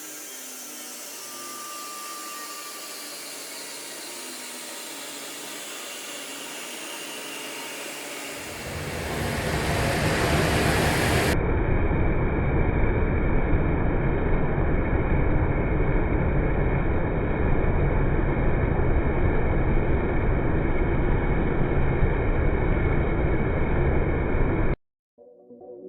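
BMW M4 inline-six with a big single Garrett G35-900 turbo running hard under load: a loud, dense, steady rush of engine and turbo noise that builds about eight seconds in and cuts off suddenly near the end.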